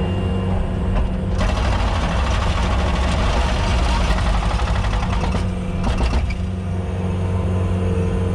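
A vehicle engine runs steadily, heard from inside the cab. From about a second and a half in, a loud rushing noise lasts about four seconds and then drops away, with a short burst of it again a moment later.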